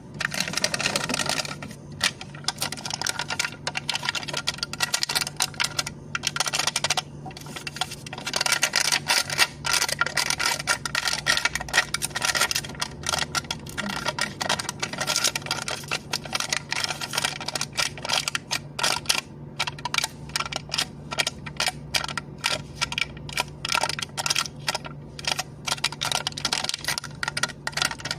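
Plastic cup lid being tapped, a dense, continuous run of quick light clicks and taps.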